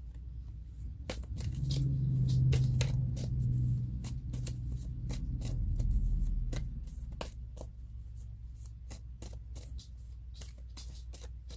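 Tarot cards being shuffled and handled: many quick papery clicks and flicks of the cards, with a low steady hum underneath that swells during the first half.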